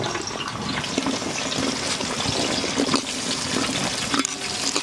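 Sliced onions sizzling in hot oil in a large pan: a steady crackling hiss.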